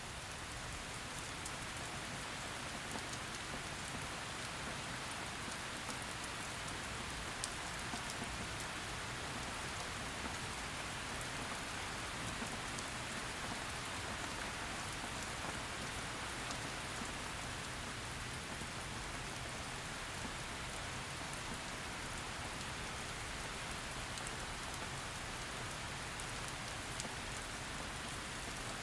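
Steady heavy rain falling on a surface, an even hiss with many small drop ticks.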